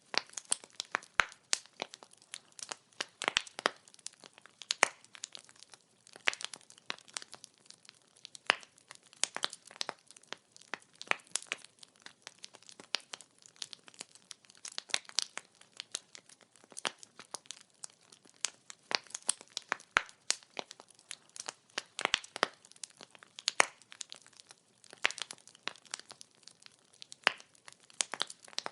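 Firewood burning and crackling: irregular sharp pops and snaps, several a second, some much louder than the rest, over a faint hiss.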